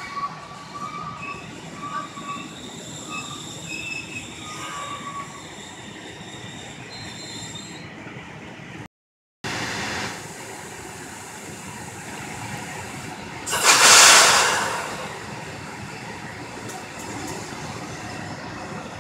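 Train running through a station, its wheels squealing on the rails in a few short high-pitched bursts over a steady rumble. After a break, the rumble goes on and a loud rush of hiss swells and fades over about a second and a half near the middle.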